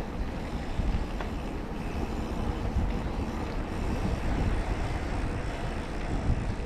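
Wind buffeting the microphone over a steady low rumble, typical of a mountain bike rolling along a trail.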